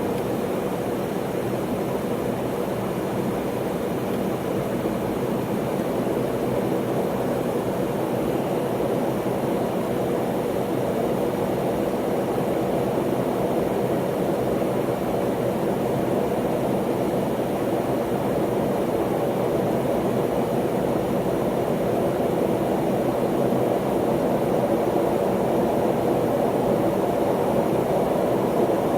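Steady rushing drone inside the cabin of an MD-83 jet airliner, growing gradually louder.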